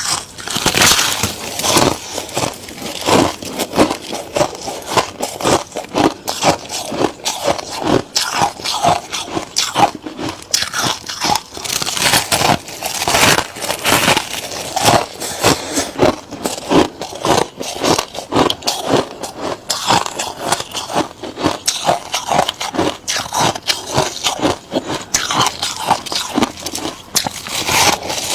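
Freezer frost being bitten and chewed close to the microphone: a dense, unbroken run of crisp crunches.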